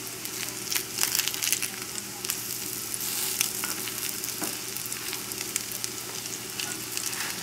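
Potato pancakes frying in shallow oil in a nonstick skillet: a steady sizzle, with scattered clicks and scrapes as a silicone spatula turns them over against the pan.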